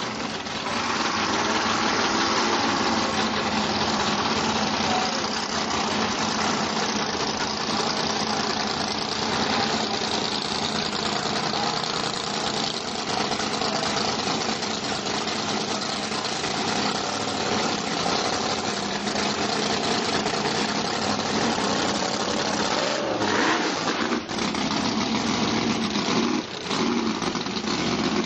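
Drag racing car's engine idling steadily, with two short dips in the sound near the end.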